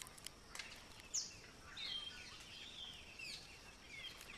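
Chirping and falling whistled bird calls, with a few sharp knocks near the start: a male palm cockatoo drumming a stick against the side of its nest hollow.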